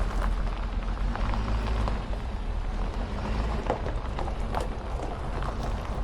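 Truck on the move: steady low engine and road noise, with scattered light rattles and knocks throughout.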